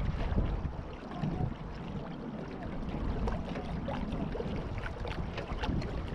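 Water washing along the hull of a Beneteau First 20 sailboat under sail, with a steady low rumble of wind on the microphone and scattered small splashes and ticks.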